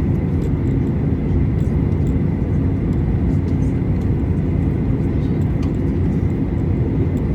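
Steady cabin noise inside a Boeing 737-800 with its CFM56-7B engines running at low power: an even low rumble with a thin steady whine on top.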